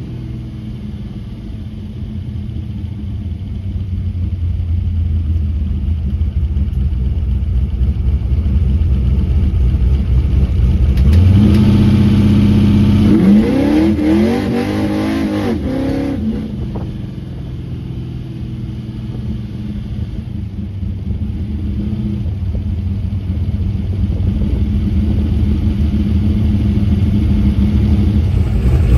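A 1932 Ford coupe hot rod's engine, fed by a 750 Holley Brawler carburetor, pulling the car down the road, heard from inside the car. It builds steadily and climbs in pitch under hard acceleration about halfway through, then lets off suddenly and builds again toward the end.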